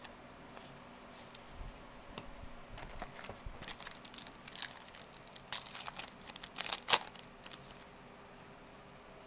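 Foil trading-card pack being torn open and crinkled, a run of sharp crackles building to the loudest tear just before seven seconds, then stopping.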